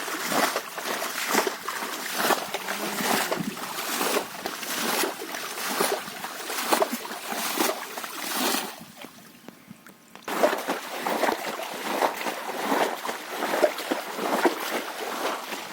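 Shallow water splashing and sloshing in quick, irregular strokes as hands work through it to catch fish. It drops away for about a second and a half past the middle, then starts again suddenly.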